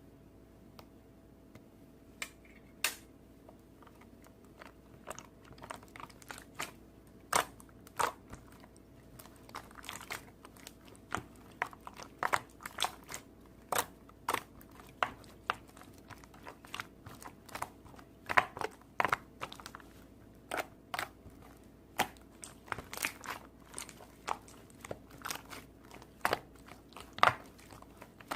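Crunchy chewing: irregular sharp crunches, sparse at first and then one or two a second from about ten seconds in, over a faint steady hum.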